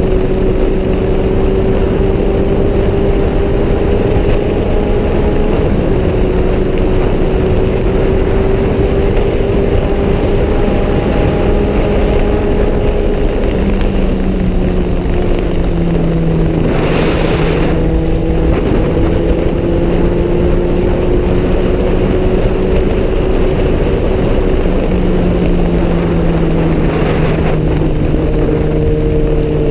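Kawasaki Z1000 inline-four engine running at a steady cruise under wind rush on the camera mic. Its note steps down a little about halfway and again later, and two brief rushes of noise come through, one about halfway and one near the end.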